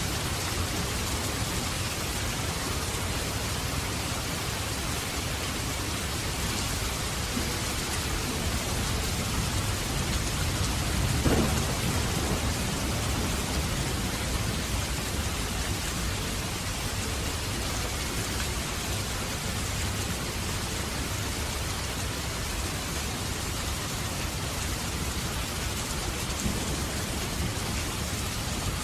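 Steady rushing hiss like heavy rain, with one short downward-gliding sound about eleven seconds in.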